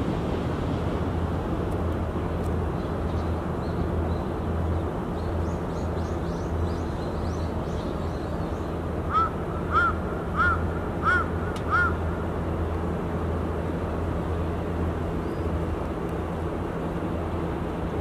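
A steady low rumble, with faint high chirps early on, then a bird calling five times in quick succession about halfway through.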